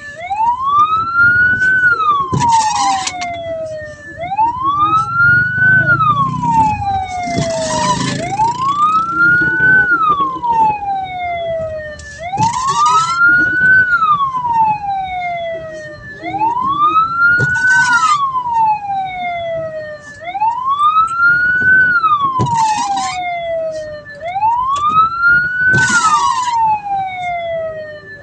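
Hearse's electronic siren sounding a wail: the pitch climbs quickly and falls slowly, repeating about every four seconds. Short harsh bursts cut in between some of the cycles, over a low rumble of traffic.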